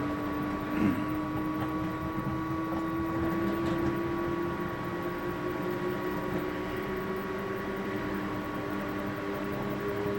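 Samsung washing machine spinning, heard from inside the drum: a steady mechanical hum with a motor whine that climbs slowly in pitch as the drum speeds up. There is a brief knock about a second in.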